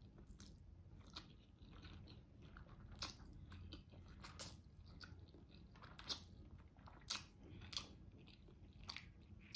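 Faint close-up mouth sounds of a person eating spaghetti carbonara: chewing with a scattering of short, wet clicks, about one every second.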